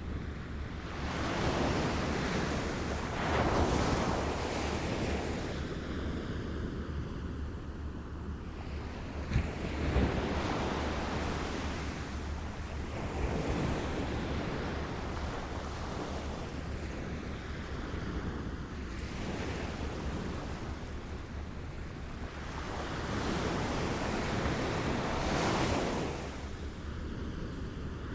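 Small waves lapping and washing ashore, swelling and falling back in slow surges every few seconds, with a short splash about nine seconds in. Wind rumbles on the microphone underneath.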